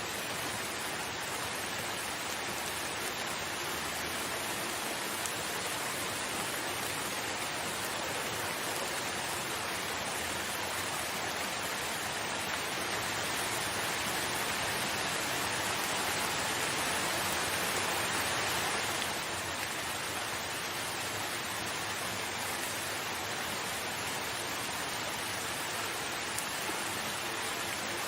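Steady rain falling, a dense even hiss. It grows a little louder toward the middle, then drops back suddenly about two-thirds of the way through.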